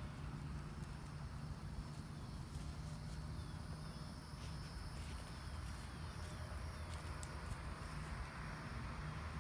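Faint outdoor yard ambience: a steady low hum under a thin insect buzz, with a few short, falling bird chirps and scattered small clicks.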